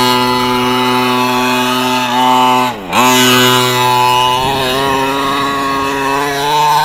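Redcat 1/5-scale monster truck's 32cc two-stroke gas engine held at high revs, dropping briefly about three seconds in and climbing straight back up, then wavering slightly.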